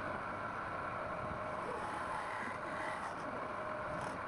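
Wood lathe running steadily under power, its motor giving a steady whine with a rushing noise underneath.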